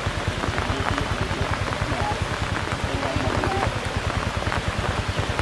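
Steady rain falling, with many close drop hits on the microphone and its surroundings; faint voices in the background.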